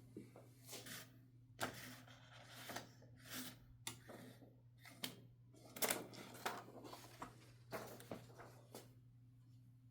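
1969 Adler J5 manual typewriter's mechanism being worked by hand: irregular clicks and clacks, some close together and some about a second apart.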